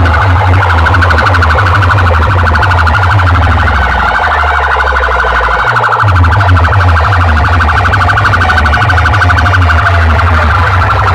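Very loud sound-system playback of a warbling, siren-like effect over a pounding bass. The bass cuts out for about two seconds near the middle, then comes back.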